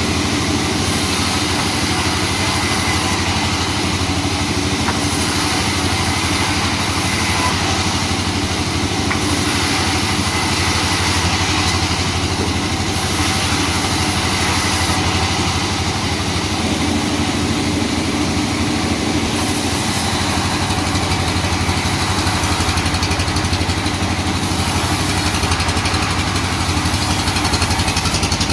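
Sawmill machinery running steadily, a continuous engine-like drone with no clear pauses or separate impacts.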